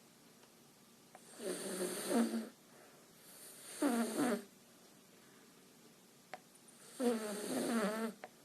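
Dog snoring: three snores of about a second each, a couple of seconds apart, each a rattling pitched breath.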